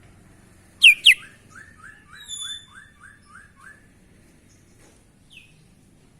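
Sooty-headed bulbul (kutilang) singing: two loud, sharp downward-sweeping notes about a second in, then a quick run of about nine short repeated notes with a higher whistle over them. One more short note comes near the end.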